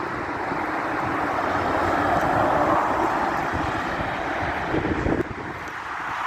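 A lorry driving past, its engine and tyre noise swelling to a peak about two and a half seconds in and then fading. Wind buffets the microphone.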